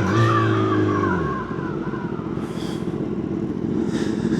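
Kawasaki ZX-10R inline-four engine running on the move. Its pitched engine note holds for about the first second, then drops away and gives way to a rougher, lower rumble.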